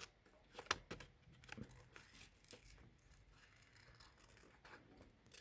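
Faint, irregular snips of small scissors cutting out a small paper shape.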